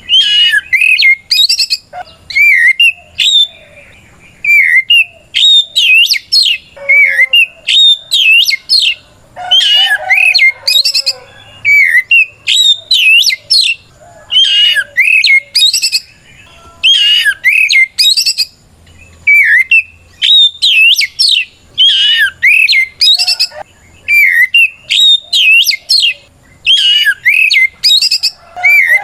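Oriental magpie-robin singing a loud, full-volume challenge song, the kind used to call out a rival male. Short, sharp whistled phrases with quick up-and-down glides come in rapid bursts separated by brief pauses.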